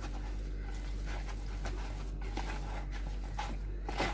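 Spice paste being stirred and beaten in a bowl, with faint irregular squelching strokes over a steady low hum.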